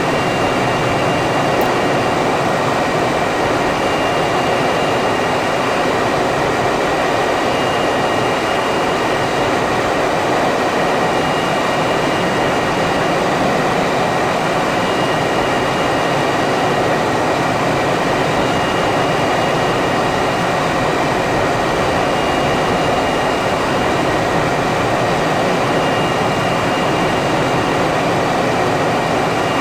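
Steady jet-engine noise from a MiG-21, even in level throughout, with no rise or fall of a passing aircraft. A faint high tone comes and goes every three to four seconds.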